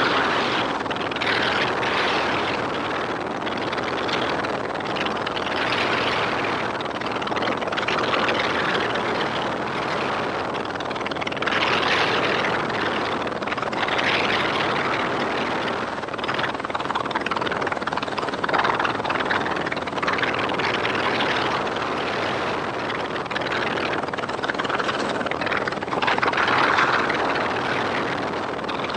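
Helicopter in flight: continuous rotor and engine noise that swells louder and softer every few seconds.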